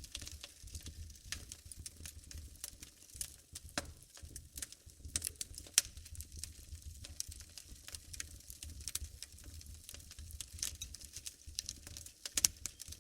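Wood fire burning in a fireplace: irregular crackling and snapping of burning logs, with a few louder pops, over a low rumble.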